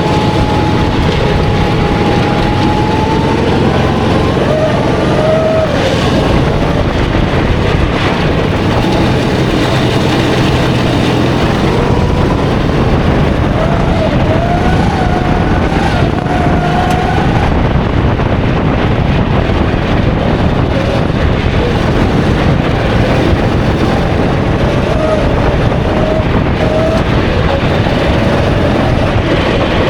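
A 270cc single-cylinder four-stroke kart engine running hard and loud, its pitch rising and falling over and over as the throttle comes on and off through the corners.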